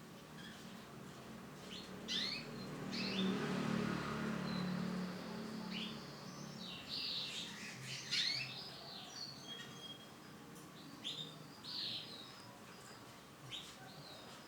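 Male canary giving short chirps and brief song notes at irregular intervals. A stretch of low background noise runs from about two to six seconds in.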